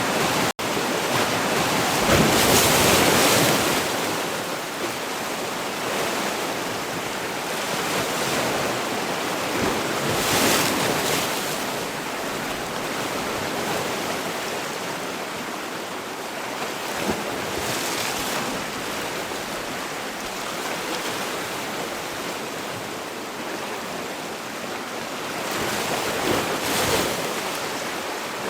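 Sea waves breaking in a continuous surf, with a louder wave washing in about every eight seconds; the biggest comes about two seconds in. The sound cuts out for a split second just after the start.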